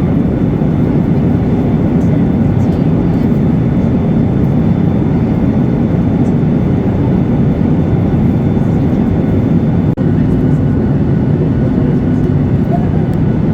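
Steady engine and airflow noise heard inside the cabin of a Boeing 737-8200 in flight, a low, even roar with faint steady whine tones above it and a brief dropout about ten seconds in.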